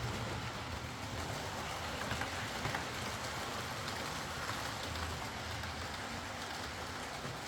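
Hornby Britannia Class OO-gauge model steam locomotive running along the track: a steady whirr from its motor and wheels with a few faint clicks. It is running again now that its split double gear has been replaced.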